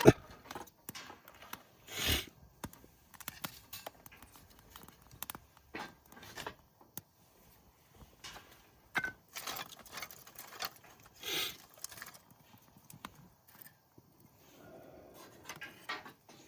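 Irregular knocks, snaps and crackles from a wood campfire and the firewood being handled around it, with a few louder rustling scrapes.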